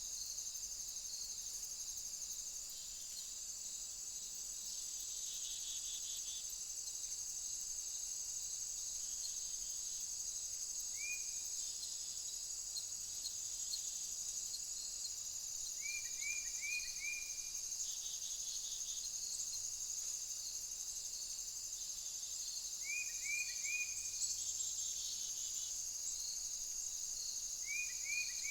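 Steady high shrill of an insect chorus, crickets or bush-crickets, running throughout. A few times, short quick chirps come in groups of three or four.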